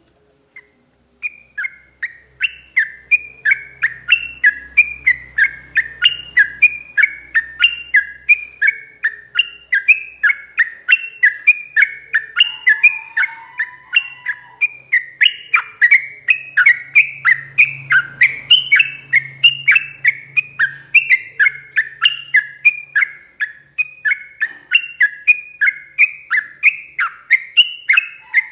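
Yellow-vented bulbul (trucukan) singing a long, unbroken run of quick whistled notes, each slurring downward, about three a second. This is the rolling 'ropel panjang' song that keepers play to draw a caged trucuk into answering.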